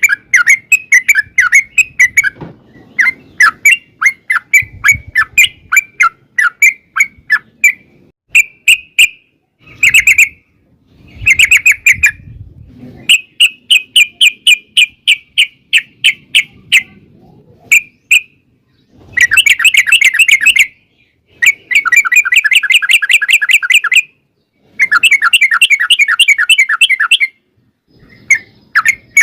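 Yellow-vented bulbul song: series of quick, bright chirping notes repeated one after another. It is broken by short pauses and builds into long, fast rattling runs in the second half ('ropel panjang').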